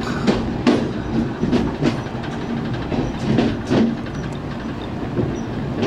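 Suburban electric train running on jointed track, heard from inside its rear cab: a steady running rumble with wheels clicking over rail joints at irregular intervals.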